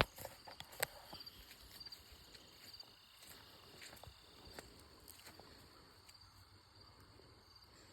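A few sharp footstep crunches in the first second. Then insects, crickets by their sound, chirp in short high trills repeated about twice a second, fading toward the end.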